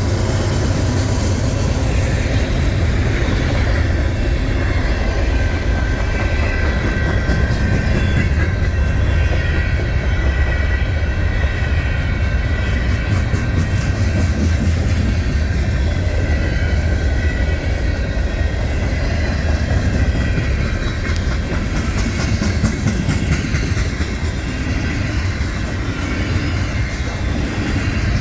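A long loaded freight train rolling past, its cars' steel wheels rumbling and clacking over the rail joints in a steady, loud stream. A faint, steady high ringing tone sits over the rumble for most of it.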